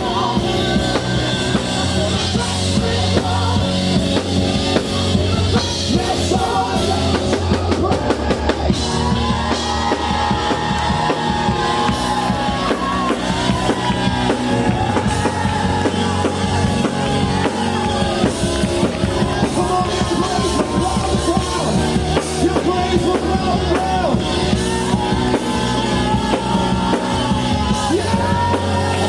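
Live worship music: a band with a drum kit keeping a steady beat under sustained sung melody lines, with voices joining in more strongly from about a third of the way through.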